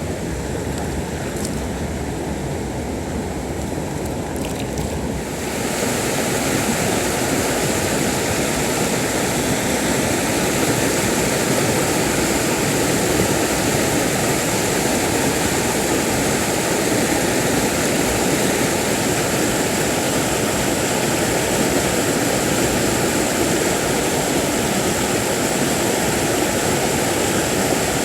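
Mountain stream rushing, a steady wash of water noise that gets louder and fuller about five seconds in.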